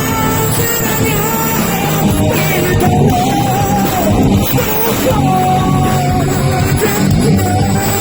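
Live heavy metal band playing, loud and dense, with a long held, wavering melody line riding over the guitars and drums.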